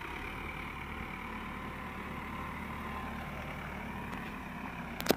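Diesel tractor engine idling steadily, with one sharp click near the end.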